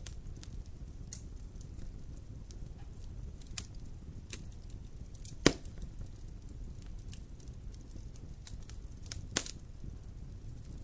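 Wood fire burning in a fireplace with a steady low rumble and scattered crackles, and two louder pops about halfway through and near the end.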